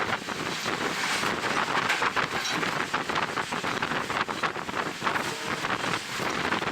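Wind buffeting the microphone at an open train window, a dense gusty rush over the running noise of a moving passenger train.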